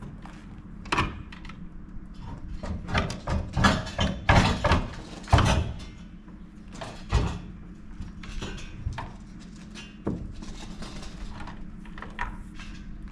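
Irregular knocks and clatters of hard objects being handled, thickest in the middle, over a steady low hum.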